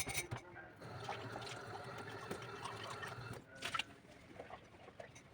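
Water running from a kitchen tap while dishes are washed, with a sharp dish clink at the start and another clatter a little over halfway through.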